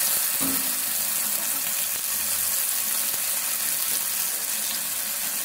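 Masala-coated cauliflower florets sizzling steadily as they fry in hot oil in a pan.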